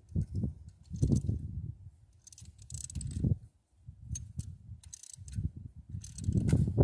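Hand tools at work on an engine's valvetrain while the rocker arms are adjusted: scattered metallic clicks and clinks over irregular low bumps and rumble.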